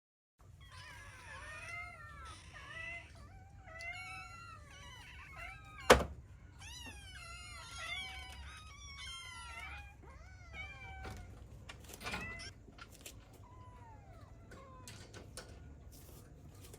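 Young kittens mewing over and over in short, high-pitched calls, sometimes overlapping. A sharp knock sounds about six seconds in and is the loudest thing, with a fainter knock near twelve seconds.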